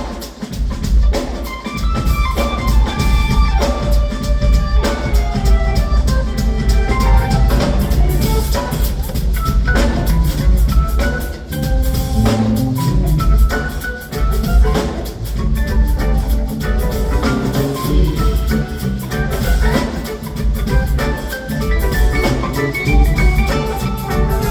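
Live band playing an instrumental passage: a full drum kit keeps a steady beat under melodic lead lines.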